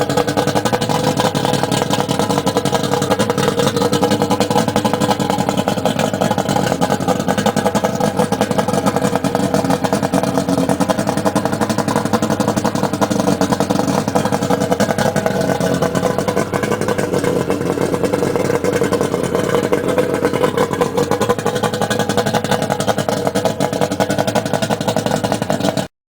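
1987 Johnson 200 hp V6 two-stroke outboard motor running steadily. The sound cuts off abruptly just before the end.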